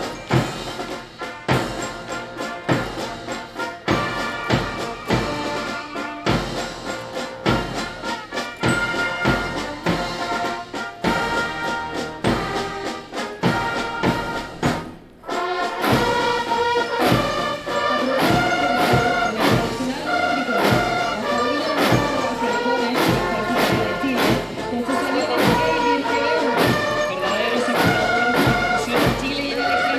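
Brass band playing a march with a steady drum beat, with a brief break about halfway through before it carries on louder.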